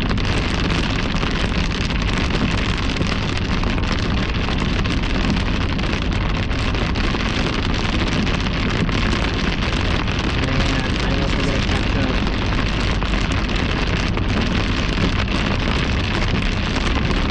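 Steady noise of a car driving at road speed, tyres and wind, with rain pattering on the car.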